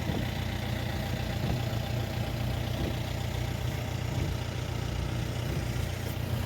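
Car engine running steadily, a low, even hum heard from inside the vehicle's cabin.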